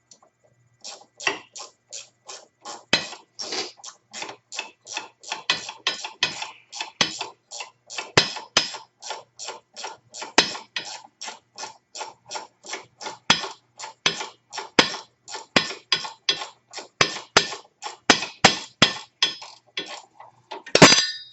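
Hand ratchet wrench clicking steadily, about three clicks a second, as a bolt is run down; a louder clatter near the end.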